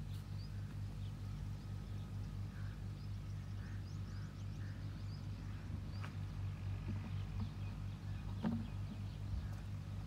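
Outdoor ambience: a steady low hum with small birds chirping now and then, and a few light knocks from a plastic bucket being handled, around six and eight and a half seconds in.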